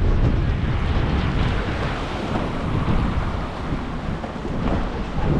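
Strong gusting wind buffeting the microphone: a heavy, uneven low rumble with a rushing hiss over it, dipping a little in the middle and swelling again near the end.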